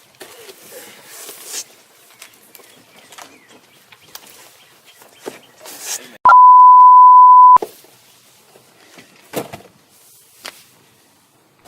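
A single loud, steady, pure beep on one pitch, lasting just over a second about halfway through and cutting in and out abruptly: an edited-in censor bleep. Faint scuffs and knocks around it.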